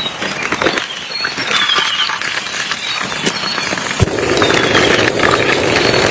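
Rain falling in a forest with scattered drips and clicks, and repeated short, falling chirps from a small animal. A sharp knock about four seconds in, after which a louder, steadier rushing sets in.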